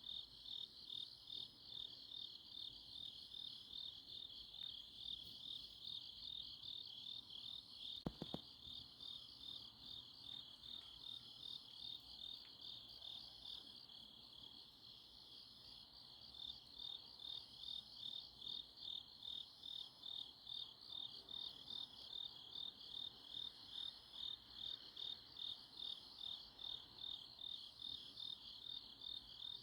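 A chorus of autumn night grass insects chirping steadily in high-pitched pulses, about two a second, easing off briefly midway. A single short click sounds about eight seconds in.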